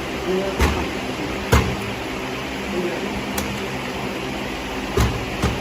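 A steady low mechanical hum, with about five sharp knocks or clicks spread through it.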